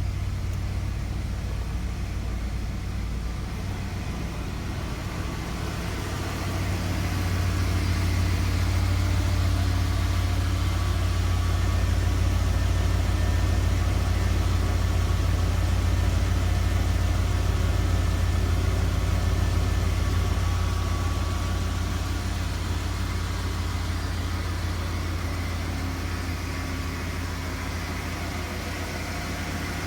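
Ford Bronco engine idling steadily after a cold start, still warming up; it runs a little louder from about seven seconds in and settles back after about twenty seconds.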